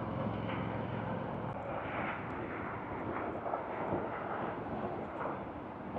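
Steady hiss and rumble of road traffic.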